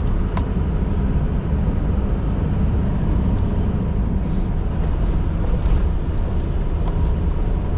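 2016 Scania R620's 16-litre V8 diesel running steadily as the truck drives along, a deep even rumble, with a short hiss about four seconds in.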